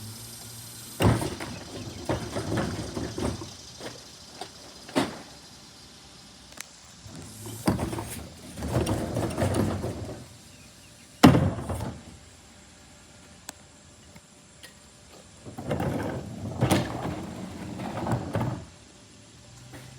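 Garbage truck collection: several bursts of clattering and scraping with sharp bangs, the loudest a single bang about eleven seconds in.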